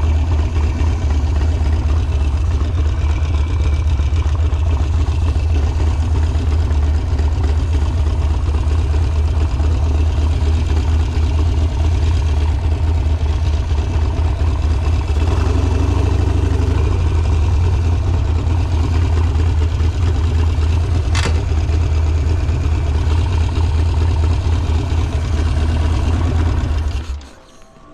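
Harley-Davidson Sportster V-twin engine running steadily at a low, even pace, with one sharp click partway through. Near the end the engine is switched off and the sound stops abruptly.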